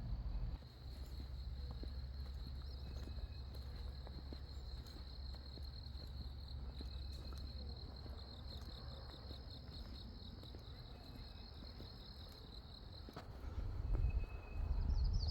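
A continuous high-pitched, pulsing insect trill that cuts off suddenly about 13 seconds in, over a low rumble. A short, higher chirp comes near the end.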